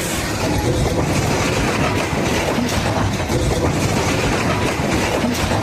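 Train cars rolling and rattling past on the rails, a steady loud noise of wheels and car bodies.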